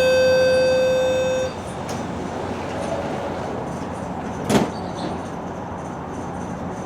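The last, lowest note of a GO Transit coach's falling three-tone door-closing chime, held for about a second and a half, then the coach's steady interior rumble. A single sharp thud comes about four and a half seconds in, as the sliding doors shut.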